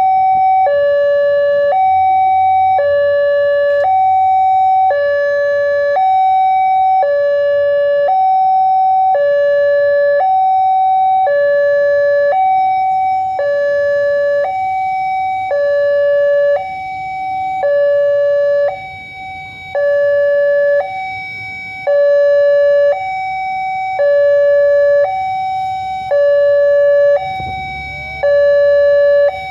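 Railway level-crossing warning alarm sounding, an electronic two-tone signal alternating steadily between a higher and a lower tone about once a second. A brief low rumble comes in near the end.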